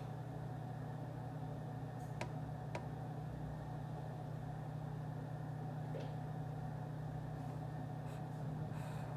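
Office room ambience: a steady low hum with a few faint clicks, two a little over two seconds in and a softer one about six seconds in.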